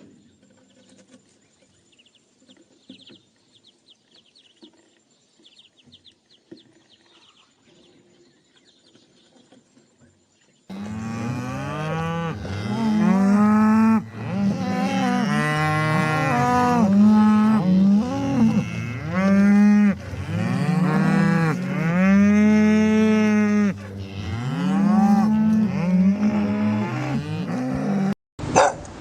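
Only faint background sound at first, then from about 11 seconds in cattle mooing loudly, several long moos overlapping one after another, cutting off abruptly near the end.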